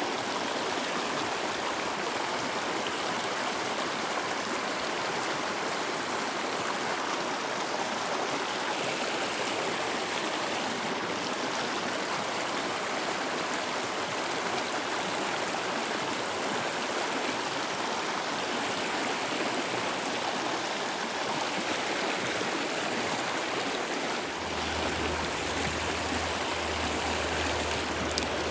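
Mountain stream rushing steadily over rocks, a constant even wash of water. A low rumble joins in near the end, with a single click just before it ends.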